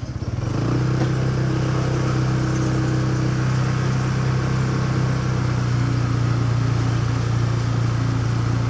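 Motorcycle engine that picks up a little under a second in and then runs at a steady pitch, with the hiss of road and traffic noise.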